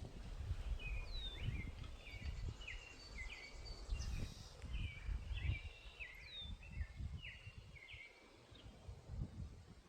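Birds chirping: a run of short repeated notes with a couple of quick falling whistles, over a low, uneven rumble.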